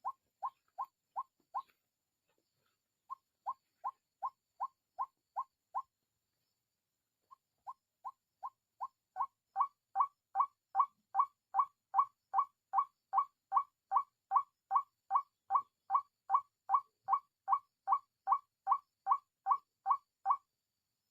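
White-breasted waterhen (ruak-ruak) calling: a steady string of short falling notes, about two and a half a second, in three runs with brief pauses. The last, longest run gets louder about ten seconds in.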